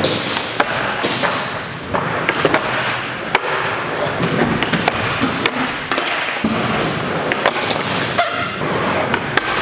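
Skateboards rolling on an indoor skatepark's ramps and floor, with many sharp clacks and thuds of boards popping and landing scattered throughout.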